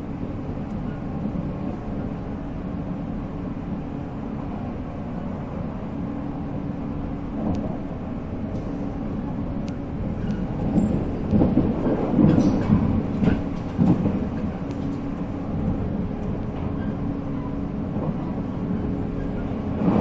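Onboard running sound of a 485-series express electric train: the steady hum of its MT54 traction motors over the rumble of wheels on rail. From about ten to fourteen seconds in, it grows louder and rougher, with clattering.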